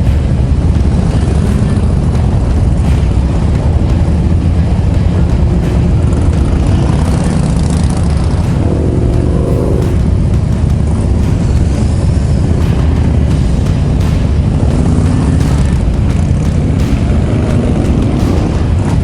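Motorcycle engine running under way, heard from the rider's seat: a steady low drone with road and wind noise over it. The engine note rises briefly about nine seconds in.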